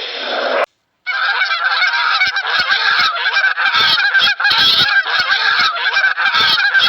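A flock of geese honking, many calls overlapping without a break, starting about a second in after a brief silence.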